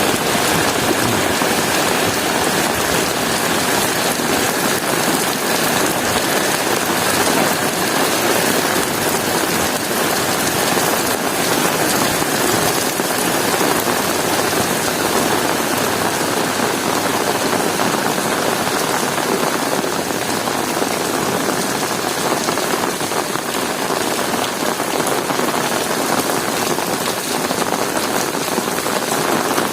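Heavy rain falling steadily and evenly on hard surfaces: a dense, unbroken hiss of rain.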